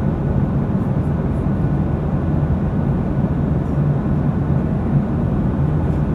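Steady cabin noise inside a jet airliner in flight: an even rush of engine and airflow noise with a constant low hum.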